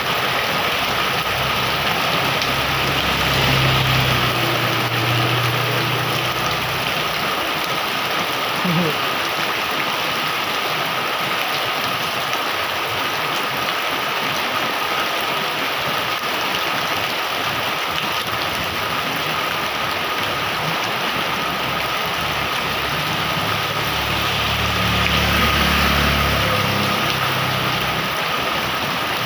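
Heavy rain pouring steadily. A motor vehicle's engine hum swells and fades twice, a few seconds in and again near the end.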